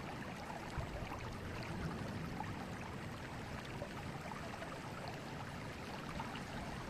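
Forest river flowing: a steady rush of moving water.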